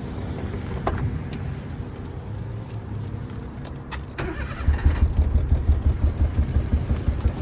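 Suzuki Alto Works' F6A turbo three-cylinder engine running. About four seconds in it gets louder and runs with an uneven, pulsing beat, a rough idle from the misfire being chased.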